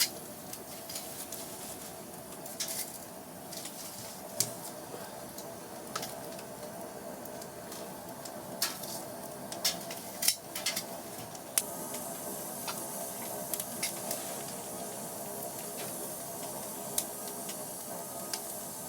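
Scattered light clinks and taps of dishes and utensils over a steady hiss. The hiss grows a little louder about twelve seconds in.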